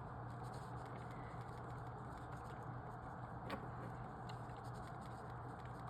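Quiet room tone with a steady low electrical hum and a single faint click about three and a half seconds in.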